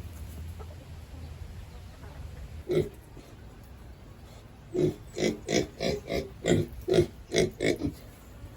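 Pig grunting: a single grunt about three seconds in, then a quick run of short grunts, about three a second, over the second half.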